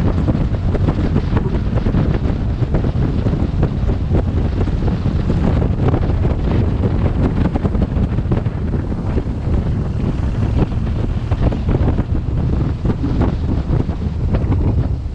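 Wind buffeting a helmet-mounted camera's microphone on a moving motorcycle: a loud, dense low rumble with constant crackling.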